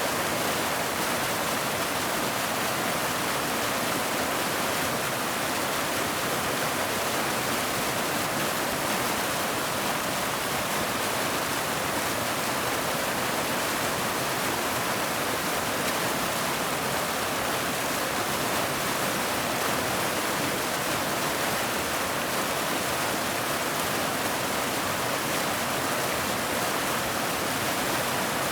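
Waterfall rushing in a steady, unbroken hiss, more hiss than rumble.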